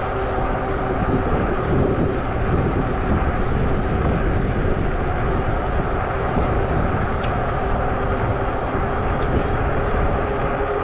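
Steady wind and road rumble from a 20-inch fat-tire folding e-bike riding along a road, picked up by a handlebar-mounted camera, with a faint steady tone under it.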